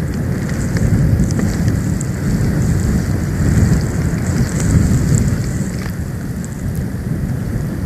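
Storm wind buffeting the nest-cam microphone: a loud low rumble that swells and eases in gusts, with faint scattered ticks over a thin hiss.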